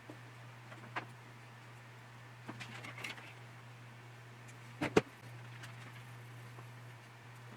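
A few small sharp clicks and taps of hobby tools and small plastic model parts being handled on a workbench: one about a second in, a short cluster around three seconds, and a louder double tap about five seconds in, over a steady low hum.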